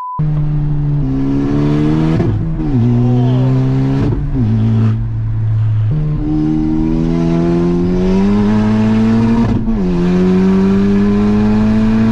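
Honda Civic Type R FK8's turbocharged 2.0-litre four-cylinder, heard from inside the cabin, running with only a catless downpipe and no exhaust behind it. It pulls hard through the gears: the engine pitch climbs, drops back at each of several upshifts, then climbs again.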